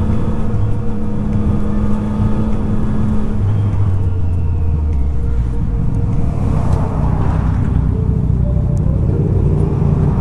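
Yamaha MT-09's inline-three engine running under way, held at steady revs for the first few seconds. The revs then drop off and pick up a little again near the end.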